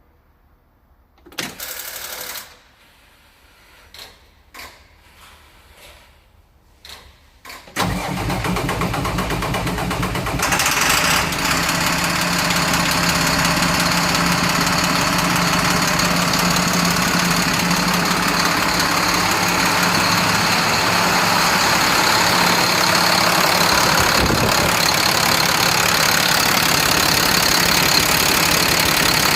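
International DT466 inline-six diesel engine starting about eight seconds in, after a brief burst of noise near the start, then running steadily at idle. It fires and keeps running now that its high-pressure oil pump (HPOP) system has been repaired.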